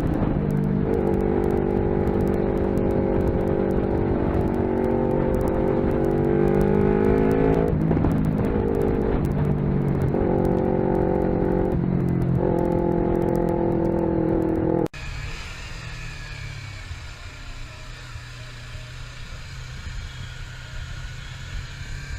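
Car engine running hard, its pitch holding and then stepping between levels as though through gear changes. About two-thirds of the way in it cuts off abruptly to a quieter, lower engine hum.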